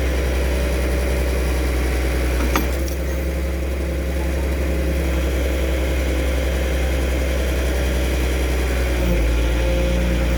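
Kobelco SK200-3 excavator's diesel engine idling steadily, with a single sharp click about two and a half seconds in.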